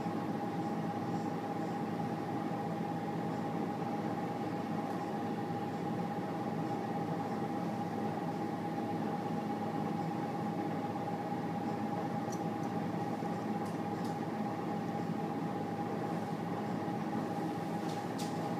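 Steady hum inside an electric passenger train carriage standing at a station, its onboard equipment running, with a steady high whine over it and a few faint ticks near the end.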